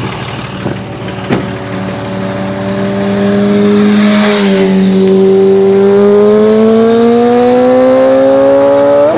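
Straight-piped 5.9 L Cummins straight-six turbo diesel in a 2003 Dodge Ram 2500, revved in park. The engine note climbs slowly and gets louder over several seconds, then drops back as the throttle is let off at the very end.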